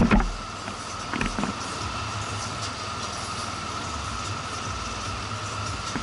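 Motorcycle running along a road, a steady mix of engine hum and wind and road noise, with a few short knocks at the start and again just after a second in.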